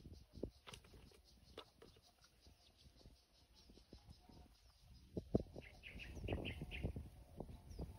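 Faint outdoor sound: scattered rustles and knocks, like movement through grass, with a short run of bird chirps about six seconds in.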